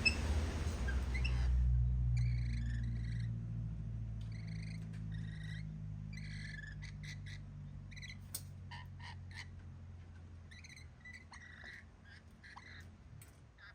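Birds calling in groups of short, repeated chirps that begin about two seconds in. A hissing noise stops just before they start, and a low hum fades out underneath.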